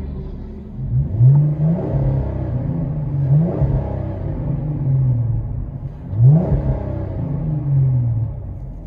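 Dodge Challenger V6 with Flowmaster Super 44 mufflers, heard from inside the cabin, revved in several quick blips, each rising sharply and falling back to a steady lower run.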